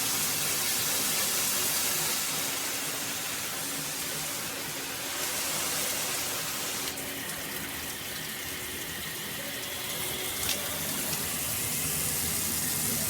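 Water spraying steadily from a high-pressure handheld shower head, an even hiss. The spray's sound changes about seven seconds in, and there is a brief click a few seconds later.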